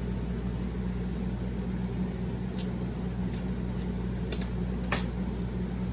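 Steady low mechanical hum in the room, with a few faint wet clicks of chewing meat in the second half.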